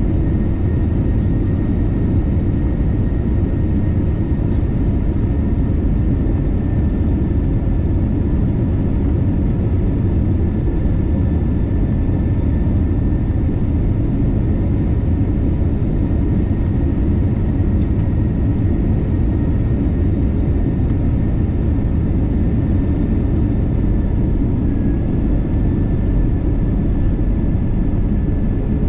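Steady rumble of a jet airliner heard inside the passenger cabin: engine and airflow noise, heaviest in the low range, with a faint steady whine above it.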